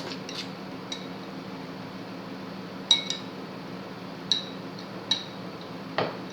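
Metal utensil clinking against a bowl of udon noodles, a handful of short sharp clinks, most of them in the second half, over a low steady hum.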